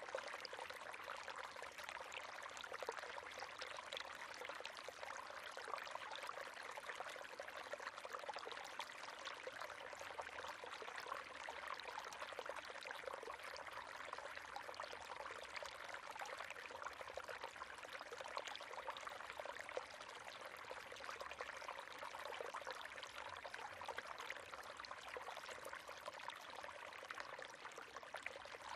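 River water running steadily over stones, a continuous splashing and babbling rush.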